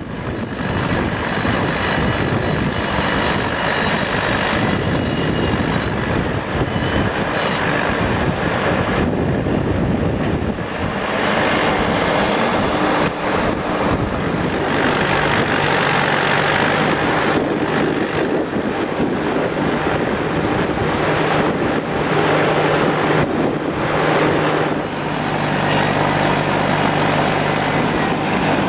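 Truck-mounted mobile sawmill with a circular blade running, a loud, steady mechanical noise; a steady low hum comes in about halfway through.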